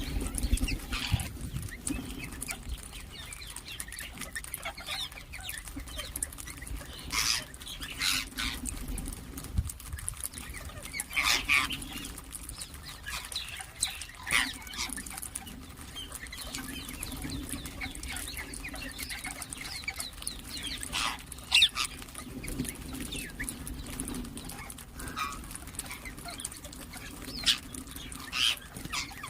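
Ring-necked parakeets giving short calls and chirps at irregular intervals, over a steady low hum.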